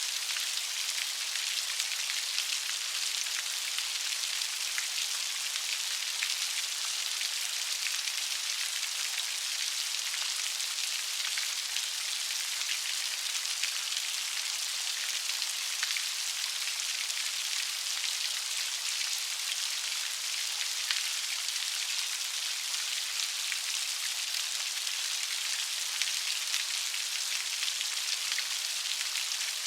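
Steady light rain falling, an even high hiss sprinkled with fine drop ticks, without thunder.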